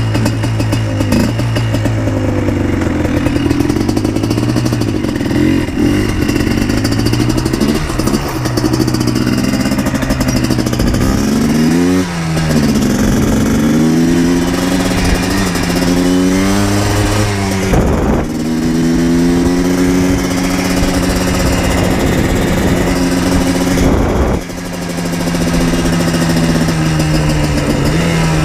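A 2000 Yamaha Blaster 200's single-cylinder two-stroke engine running under way, its pitch rising and falling with the throttle. The note breaks and dips briefly a few times, at about a third, two-thirds and six-sevenths of the way through, before climbing again.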